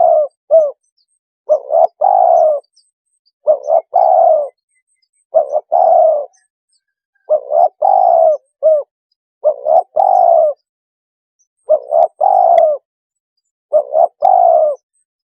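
Spotted dove cooing, a luring call repeated about every two seconds. Each phrase is two short coos followed by a longer one, and there are seven or eight phrases in all.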